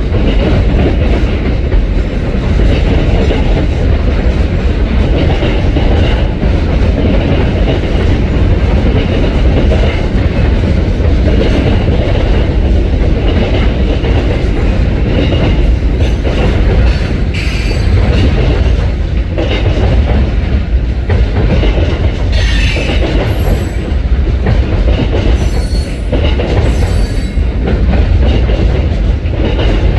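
CSX Tropicana juice train's freight cars rolling past across a railway bridge: a steady heavy rumble with wheels clattering over rail joints, and a few brief high wheel squeals in the last third.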